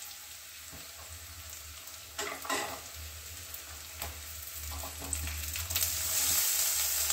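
Onions and freshly added garlic cloves sizzling in hot mustard oil in a steel kadhai, stirred with a steel spatula. The sizzle flares briefly a little over two seconds in and grows louder near the end.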